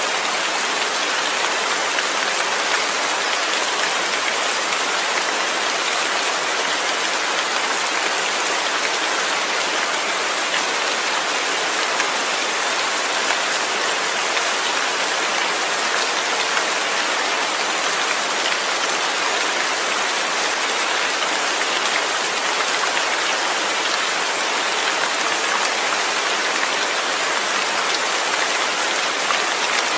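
Steady rain falling, an even hiss of many drops hitting a surface, with no let-up.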